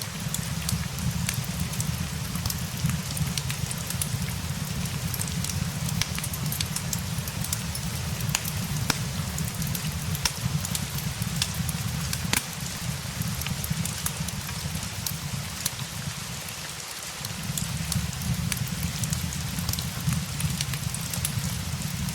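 Steady rain hiss with scattered sharp crackles and pops from a wood fire, over a low rumble that fades out briefly about two-thirds of the way through.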